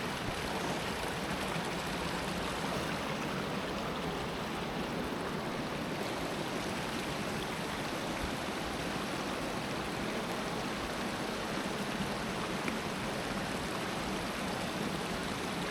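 Creek water rushing steadily over rocks, an even and unbroken noise.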